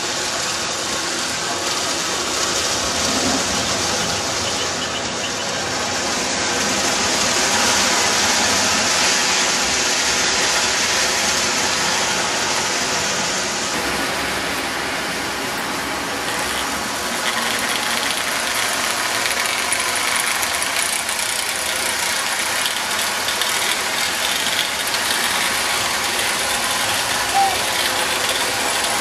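Marx toy electric trains running on the layout: a steady rumbling clatter of wheels on track and motor hum, which changes in character about halfway through.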